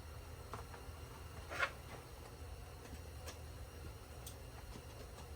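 A few light clicks and one short knock of parts being handled during engine disassembly, over a faint low hum.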